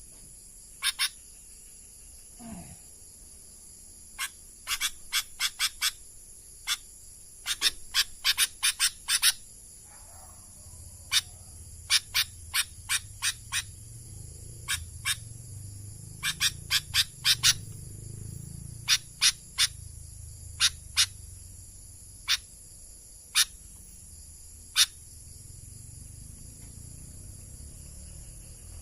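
Sooty-headed bulbul calling with short, sharp notes, some single and some in quick runs of four or five, over a steady high-pitched insect trill.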